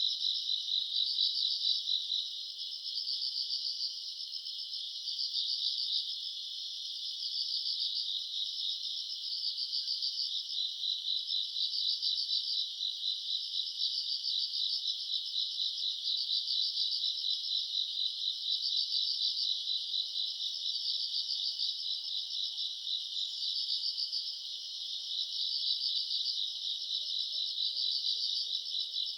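Night chorus of crickets and other grass insects, several singing at once. A high, steady, fast-pulsed trill runs under louder pulsed chirps that come in repeating phrases of about a second.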